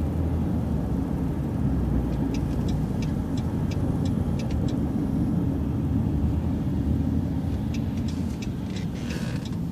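Transit bus running steadily, heard from inside the bus, with its turn signal ticking evenly for a couple of seconds in the middle and again near the end, ahead of a left turn. A short hiss comes near the end.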